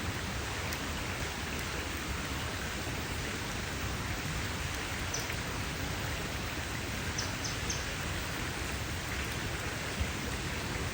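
Campfire crackling and hissing steadily in a dense patter, with a few short high chirps about halfway through and one louder pop near the end.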